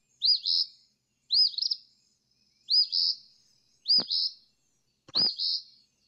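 Eastern phoebe singing its two-part 'phoebe' song: five short phrases about a second or more apart, each a sharp rising-and-falling note followed by a buzzy one.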